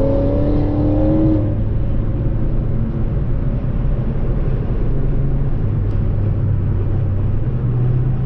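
Car engine running steadily with a low drone; a higher engine note holds for about the first second and a half, then drops away.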